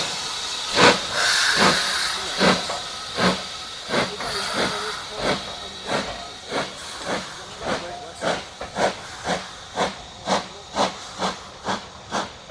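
Steam locomotive pulling away: its exhaust chuffs quicken from just over one a second to about four a second as it gathers speed. A hiss of steam is strongest at the start and fades, and the beats grow fainter as the engine moves off.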